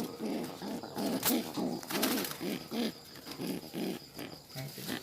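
Domestic pigeon cooing: a run of low notes repeating two or three times a second.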